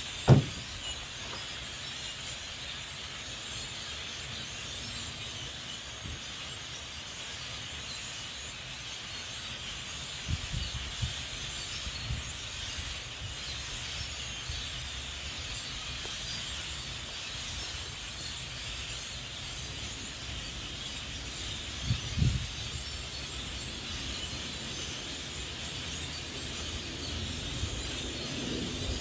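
Steady outdoor background hiss, with a sharp low thump just after the start and a few softer low bumps around ten and twenty-two seconds in.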